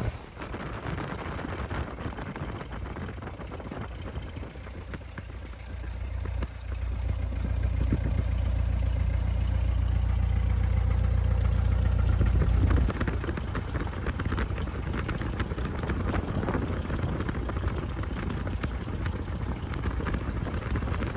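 Piper Cub seaplane's piston engine and propeller running just after start-up. It gets louder from about six seconds in and drops back about thirteen seconds in.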